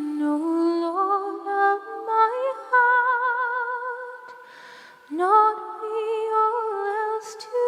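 Layered a cappella voices singing a wordless, hummed-sounding hymn introduction in close harmony with vibrato. About four seconds in the chord fades and there is an audible breath, then the voices come back in with an upward scoop.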